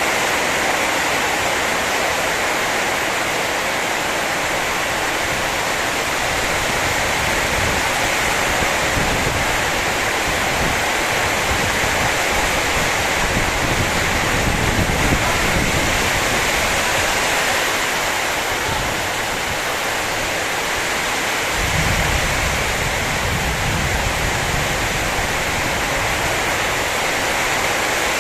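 Heavy rain pouring steadily in a storm, an even hiss, with low rumbles swelling up around the middle and again later on.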